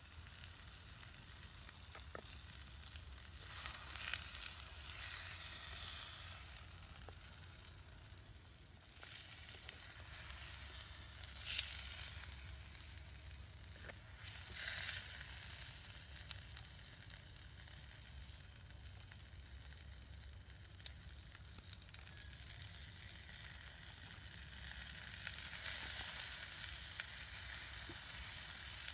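Chicken pieces sizzling as they fry in oil in a blackened pan, a steady hiss that swells louder several times as the pieces are turned and stirred.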